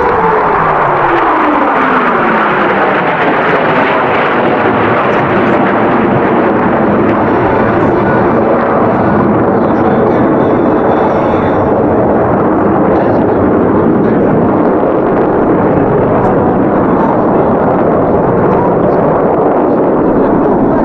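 Jet aircraft passing low, the engine note falling in pitch over the first few seconds as it goes by, then a loud, steady jet engine roar.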